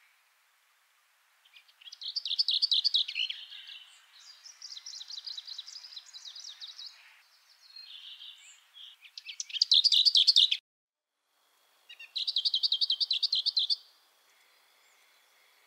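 Songbird singing in several short phrases of rapid, high repeated notes, some loud and some softer. Near the middle the sound cuts out completely for about a second, then another loud phrase follows. A faint steady high whine remains near the end.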